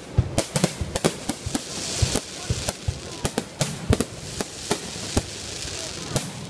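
Fireworks going off: many sharp bangs in quick, irregular succession over a steady crackling hiss.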